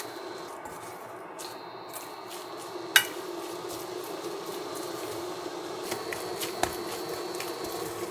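Kitchen clatter of dishes and utensils being handled: one sharp clink about three seconds in and a few lighter clicks later, over a steady low hum.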